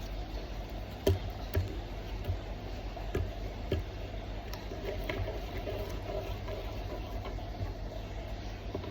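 Slime being kneaded and pulled together into a ball by hand, giving a few scattered soft clicks and squelches over a steady low hum.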